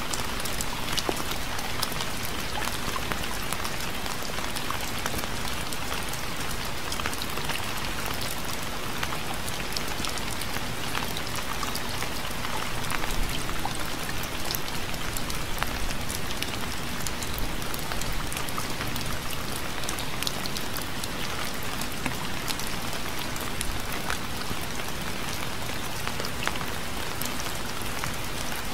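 Steady rain: an even hiss with many separate drops ticking on a surface.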